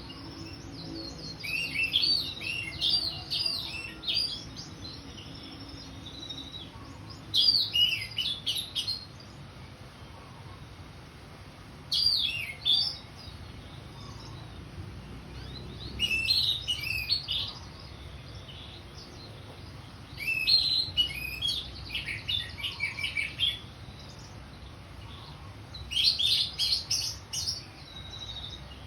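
Orange-headed thrush singing in full voice: about six phrases of quick, varied, high whistled notes, each a second or few long, with pauses of a few seconds between them.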